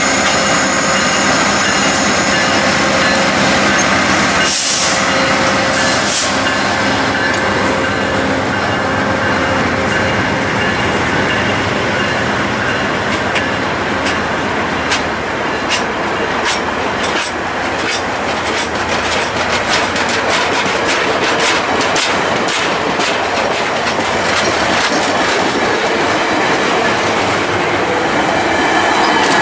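VIA Rail stainless-steel HEP passenger cars rolling past close by as the train pulls away, with a steady wheel rumble and tones above it. Wheels click over the rail joints, the clicks coming faster through the second half as the train picks up speed.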